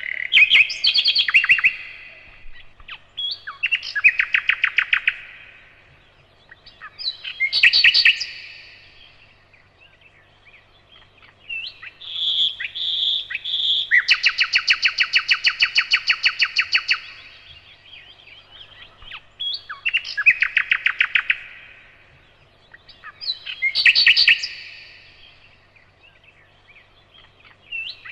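Nightingale singing: loud phrases of rapid repeated notes, each a few seconds long, with short pauses between them. One long, fast run of notes comes around the middle.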